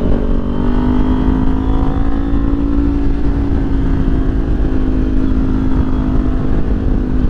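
Kawasaki Ninja 400 parallel-twin engine running steadily, its pitch holding almost level.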